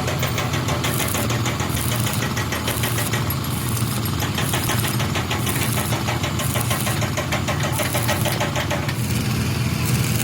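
An engine running steadily with a fast, even clatter and a constant low hum.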